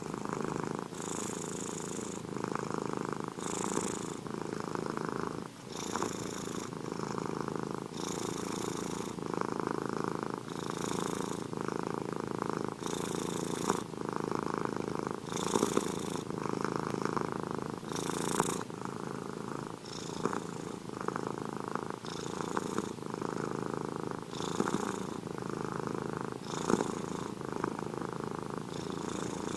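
A domestic cat purring continuously and close up, the purr swelling and easing in a regular cycle about every two seconds.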